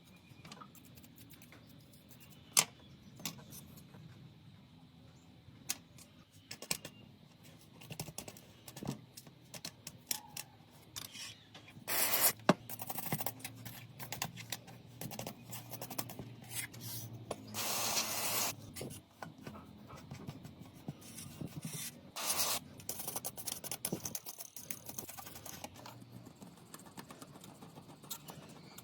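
Small hand tools clicking, scraping and rubbing on a smartphone's parts during repair work. Sharp clicks are scattered throughout, with a few longer rubbing stretches, the longest about two-thirds of the way through.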